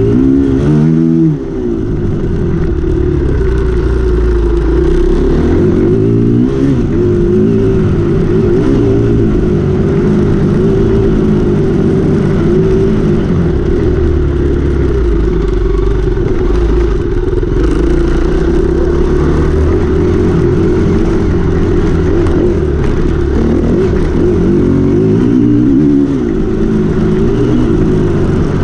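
KTM 350 EXC-F enduro motorcycle's single-cylinder four-stroke engine being ridden hard off-road, its note rising and falling with throttle and gear changes. There is a brief dip in engine loudness about a second in.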